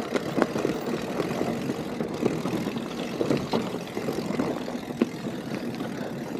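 Mountain bike ridden along a dirt forest trail: steady rushing noise with frequent knocks and rattles from the tyres and bike over the ground.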